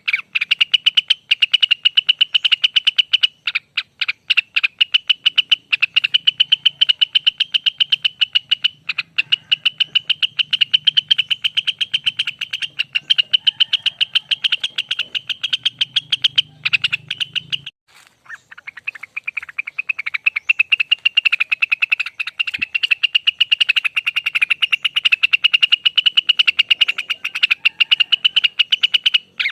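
Cucak wilis (Rengganis) singing its long 'ropel' song: a continuous rapid-fire trill of fast, evenly repeated notes, with a brief pause a little over halfway before it picks up again.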